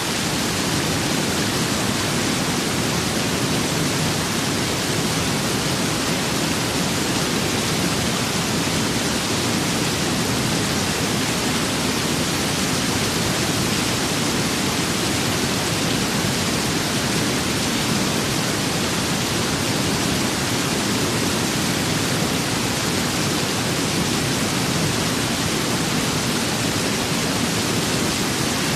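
Steady rain and wind ambience: an unbroken, even hiss with a low rumble beneath it.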